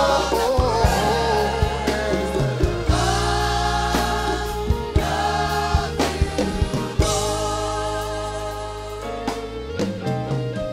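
Live gospel worship music: a band with held chords and regular drum hits under singers, with a wavering sung note at the start.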